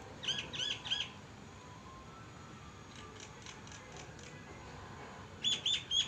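A bird calling in sets of three quick notes, each rising and then falling in pitch: one loud set about half a second in, a fainter run of notes midway, and another loud set of three near the end.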